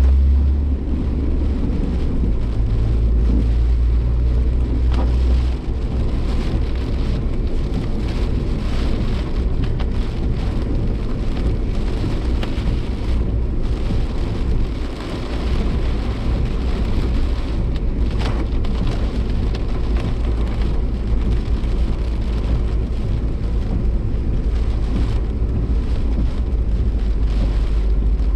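Cabin sound of a Suzuki Jimny Sierra being driven in typhoon rain: a low, steady engine and road drone with rain hitting the body and windscreen. The drone drops lower about five seconds in.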